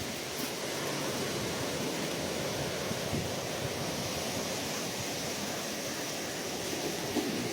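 Ocean waves washing on a shore, a steady surf wash with no single wave standing out, swelling slightly toward the end.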